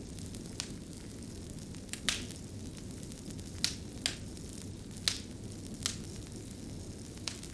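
A fire crackling: sharp, irregular pops about once a second over a steady low rush of burning.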